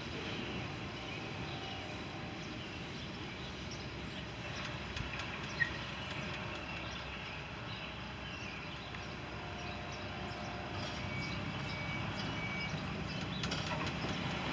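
Steady low rumble of a Canadian National freight train running away into the distance, with a single sharp click a little over five seconds in.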